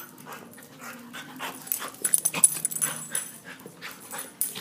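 Puppies playing together: short yips and whimpers mixed with quick clicks and scuffles, busiest and loudest a little past halfway.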